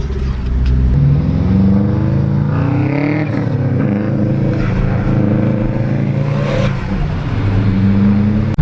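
Car engine accelerating, its pitch rising and falling as the car pulls away and changes gear.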